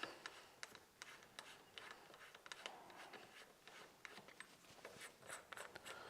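Faint, scattered small clicks and scrapes of a metal tool working the front part of an air rifle's barrel shroud loose.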